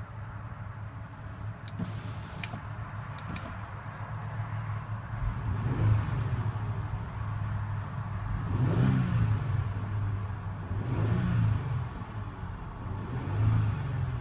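Audi Q7's 3.0-litre supercharged V6 idling steadily, blipped about four times so that each rev rises and falls back to idle; the second rev is the strongest.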